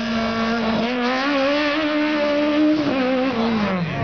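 Fiat 127 race car's four-cylinder engine running hard at high revs. Its note steps up in pitch about a second in, holds, then drops away steeply near the end.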